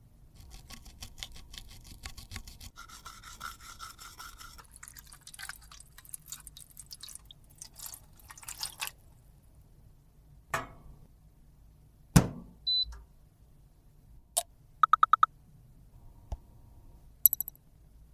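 Makeup being scraped and crushed with a tool, a fine scratchy crackling that lasts about half the clip. Then come a few sharp taps and knocks, a quick run of five short electronic beeps, and two high beeps near the end.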